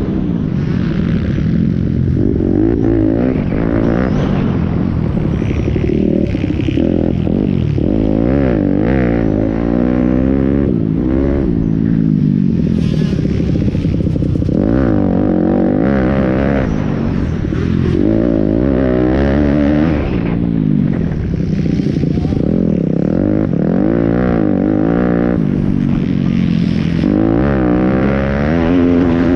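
Pit bike engines, small single-cylinder motorcycles, revving up and down over and over as they race, with the pitch rising and falling every second or two.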